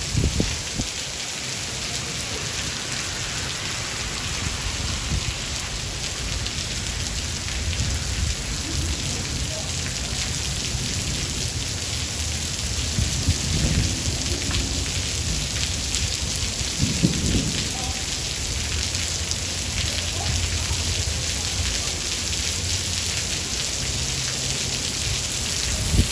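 Steady rain hissing, with thunder rumbling low underneath. The thunder swells several times, with a louder peak right at the start and two more about halfway through.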